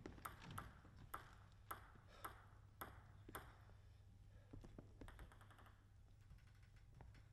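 Faint, sharp clicks of a table tennis ball, about two a second in an even run, stopping about three and a half seconds in.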